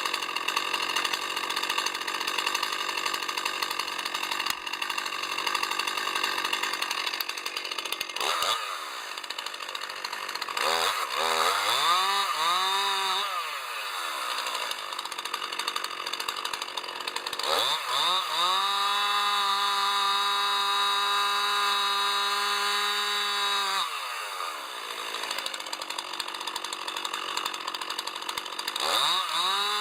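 Two-stroke chainsaw running at high revs, then throttling up and down several times. It is held at full throttle for about six seconds in the middle, drops back between runs, and revs up again near the end.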